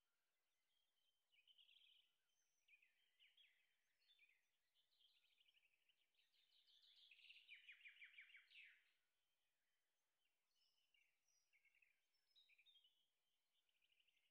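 Faint birdsong: several birds chirping in short calls, with a fast trill of rapidly repeated notes, the loudest part, from about six to nine seconds in.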